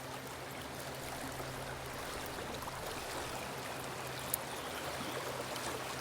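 River water flowing, a steady rushing with no breaks, over a faint steady low hum.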